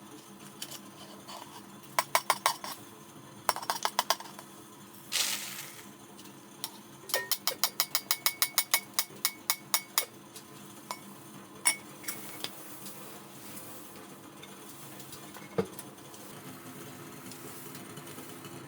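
Kitchenware being handled: quick groups of sharp clicks, a brief hiss, then a fast run of about a dozen ringing metal clinks, a few more single clinks and one knock, over a faint steady hum.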